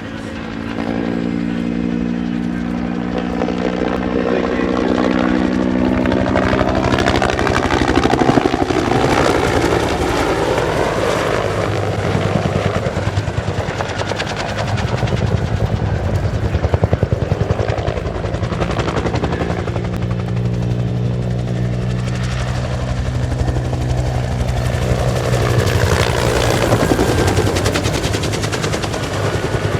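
Bell AH-1S Cobra attack helicopter flying a display pass: a loud, steady, rapid thudding from its two-blade main rotor over the whine of its turbine, with the pitch sliding as it passes, once near the start and again in the second half.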